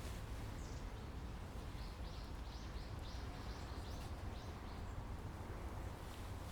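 A bird calling a quick run of about ten short, high chirps, about four a second, over a steady low rumble.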